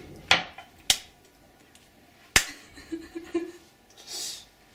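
Three sharp knocks of glasses and dishes being handled while washing up by hand, followed a little later by a short hiss.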